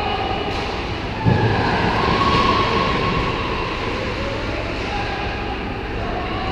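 Ice rink ambience during a hockey game: a steady rumbling din from the rink, with one sharp thump about a second in.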